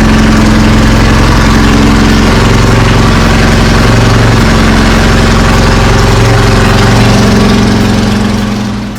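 1310 cc BMC A-Series four-cylinder race engine running steadily on an engine dyno stand, fading out in the last second.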